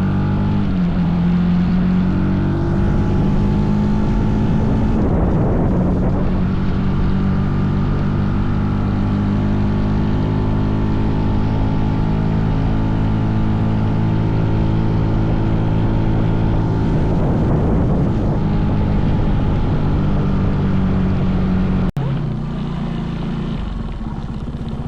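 Mini bike engine running at a steady speed while riding. About 22 seconds in the sound cuts out for an instant, then goes on a little quieter at a different pitch.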